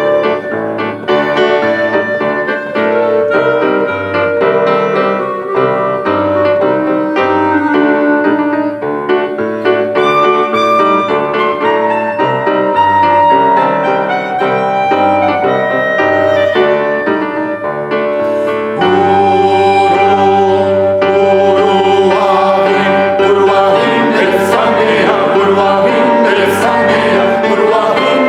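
Live music: piano playing over a repeating bass line, then about 19 seconds in a vocal ensemble comes in singing with it, and the music grows louder and fuller.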